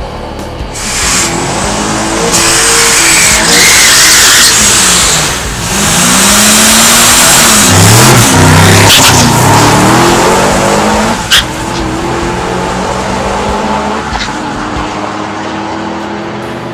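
Supercharged LS3 V8 of a 2010 Camaro SS at full throttle down a drag strip: the revs climb, break off briefly about five seconds in at a gear change, and climb again before dropping away after about eleven seconds. Music plays underneath.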